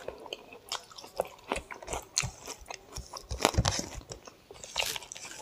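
Close-up chewing of a mouthful of mutton curry and rice, an irregular run of mouth clicks and smacks, along with fingers mixing rice on the plate.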